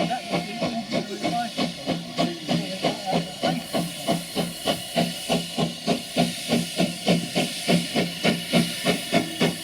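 Steam engine chuffing in a steady rhythm of about four exhaust beats a second, with hiss; the beats grow louder about halfway through.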